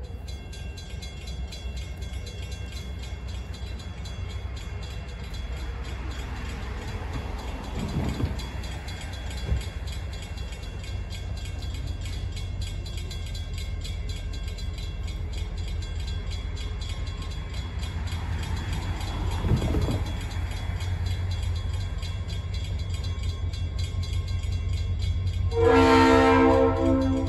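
A train approaches out of sight: a low, steady rumble slowly grows louder. Near the end, its locomotive horn sounds one chord-like blast about a second and a half long.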